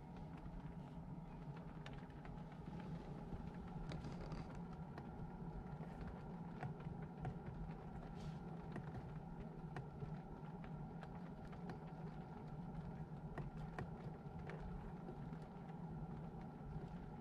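Ford Mustang GT's 5.0 V8 running steadily with a low, even hum, with faint light clicks scattered through it.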